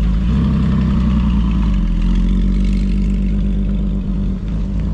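Engine of a black Porsche Boxster running at low speed as it rolls past, a steady low note that drops away about four seconds in.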